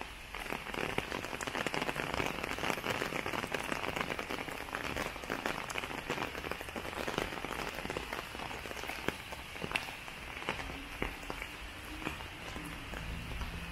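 Steady rain falling, a dense patter of many individual drops hitting hard surfaces, growing louder about half a second in.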